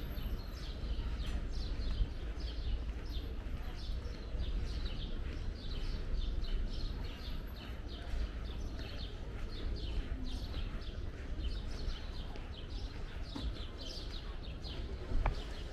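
Birds chirping in the street trees, many short falling chirps several times a second, over a steady low rumble.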